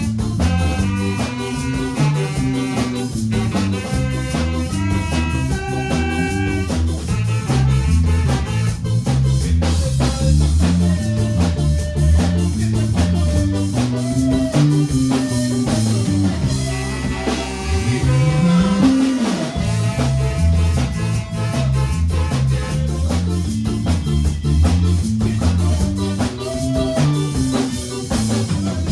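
Band music with drum kit, guitar and a busy bass line at a steady beat, in a ska-like style.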